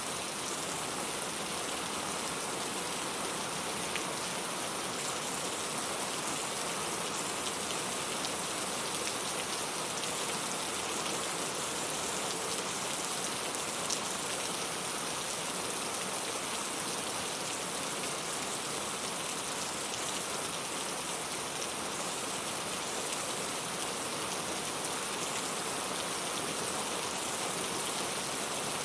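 Steady rain falling, an even hiss of many drops with a few individual drop ticks standing out.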